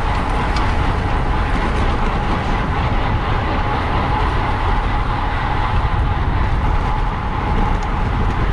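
Steady rush of wind and road noise from a road bicycle ridden at race speed in a criterium pack.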